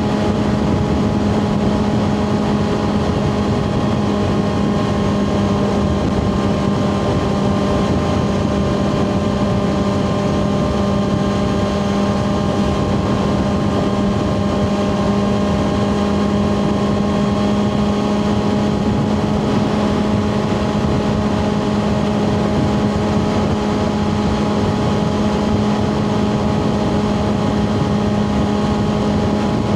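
2024 Kawasaki ZX6R's inline-four engine through a Two Brothers slip-on exhaust, running at steady, nearly constant revs while cruising, with road and wind noise under it.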